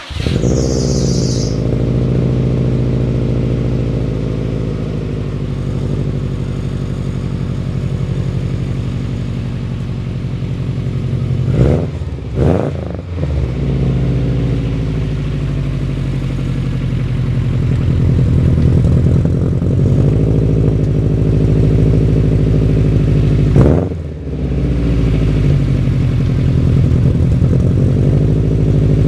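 Subaru WRX's turbocharged flat-four catching on a cold start, with a brief high-pitched power-steering squeal just after it fires, then settling into a steady fast idle. Its revs rise and fall briefly twice about twelve seconds in and once more near twenty-four seconds.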